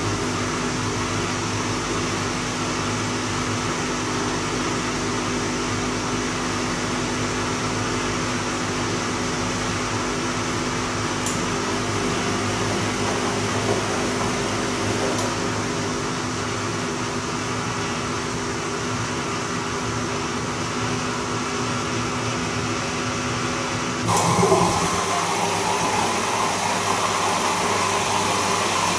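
Bosch Serie 2 Vario Perfect washing machine running its Silk cycle, its motor giving a steady hum and whine. About 24 seconds in the sound changes suddenly, with a brief gliding tone, and carries on a little louder.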